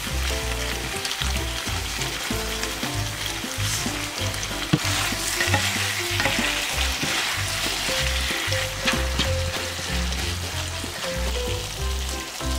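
Eel pieces in thick spicy sauce sizzling in a frying pan while a wooden spatula stirs and tosses them, with a single sharp knock about five seconds in.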